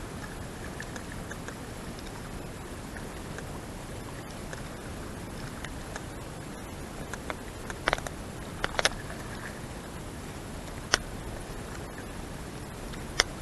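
Steady running noise of a small cabin cruiser under way, broken by a few sharp clicks or taps: three close together about eight seconds in, then one near eleven seconds and one near the end.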